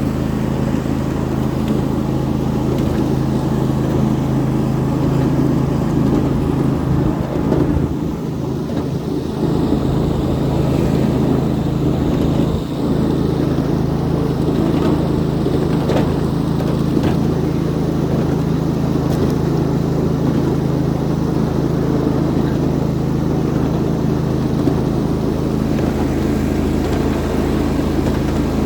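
Ride-on 7.5-inch gauge miniature train running steadily along the track, with a constant low engine hum and rolling noise that dips briefly about eight seconds in.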